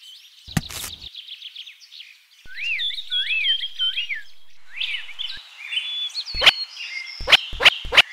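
Bird-like chirping and whistled calls, including a few whistles that rise and fall in the middle. There is a short knock about half a second in, and from about six seconds a quick series of sharp clicks, about three a second.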